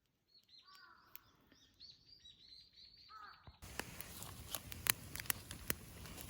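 Birds chirping and calling for about three seconds, then an abrupt change to a louder crackling hiss with irregular sharp pops, like a wood bonfire burning.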